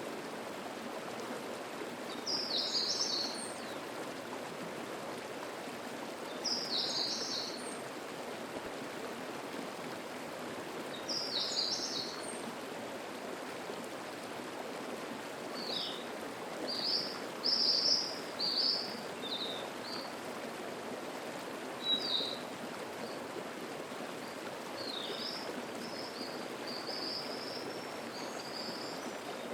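Mountain stream rushing over a rocky cascade in a steady wash. A songbird sings a short, high phrase about every four to five seconds, then in the second half gives quicker runs of high chirps.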